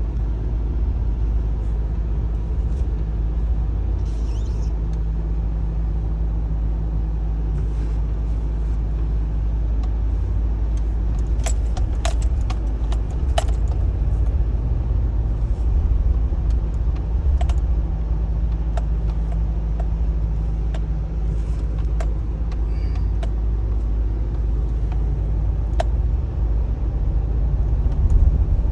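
A GMC vehicle driving, with a steady low rumble from the engine and road. Scattered light clicks and rattles come through it, most of them in a cluster about halfway through.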